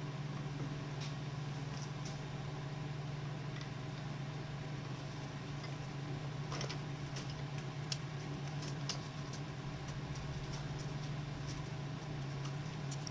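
A steady low hum, with scattered light clicks and taps of metal parts being handled, thickest from about six to nine seconds in.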